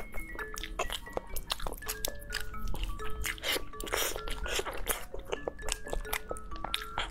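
Light background music of short plucked, chime-like notes, over close-miked chewing and biting with wet mouth clicks and smacks, loudest around the middle.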